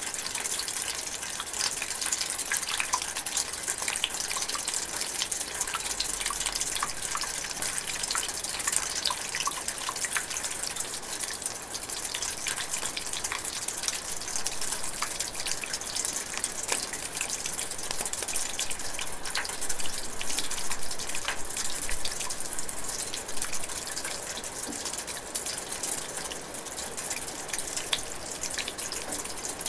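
Light rain falling steadily in a forest, a constant hiss of drizzle with many close drips and patters.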